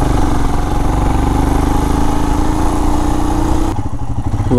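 Royal Enfield Himalayan's single-cylinder engine pulling steadily under way, its note rising slowly, with a hiss of wind noise on the microphone. About four seconds in, the wind noise and engine note drop away as the throttle eases.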